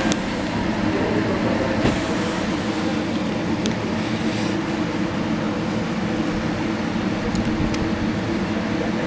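JR Central 313 series electric train running, heard from inside the passenger car: a steady rumble of wheels and running gear with a low hum and a few faint clicks.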